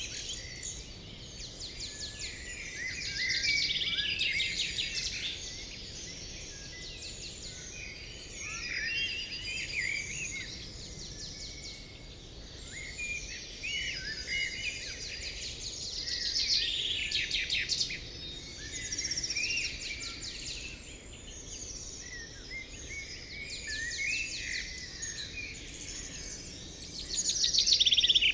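Several birds singing at once: overlapping chirps, whistled phrases and rapid trills, with louder flurries every few seconds, over a faint steady background hiss.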